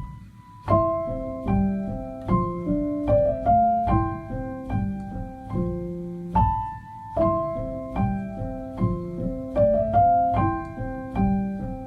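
Background piano music: a slow, gentle piano melody over chords, with notes struck at an even pace.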